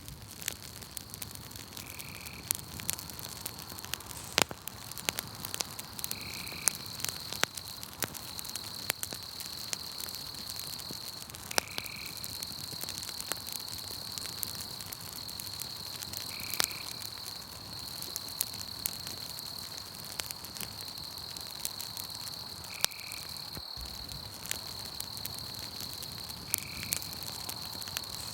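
Campfire crackling and popping, with irregular sharp snaps, over a steady high chirring of crickets. A short, lower call repeats about every four and a half seconds.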